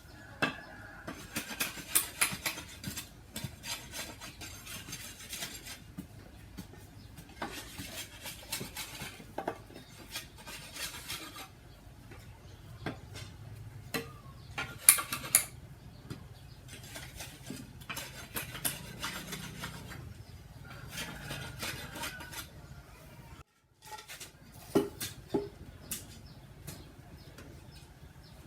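Irregular light knocks and clinks of hard objects being handled and set down, several a second in places.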